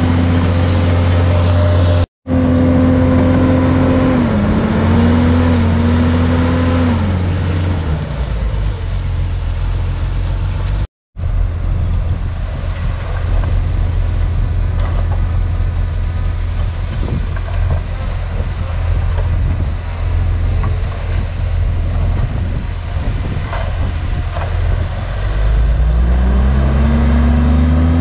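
Diesel engine of a Komatsu D51PX crawler bulldozer working, its revs rising and holding high for several seconds, dropping to a low rumble about eight seconds in, then climbing again near the end. The sound cuts out completely for a moment twice, about two and eleven seconds in.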